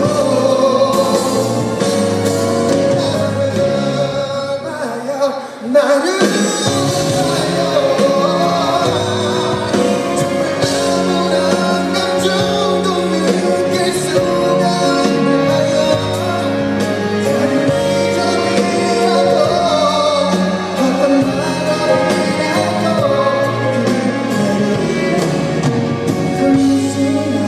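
Live concert recording of a male pop singer singing over band accompaniment; the music dips briefly about five seconds in, then carries on.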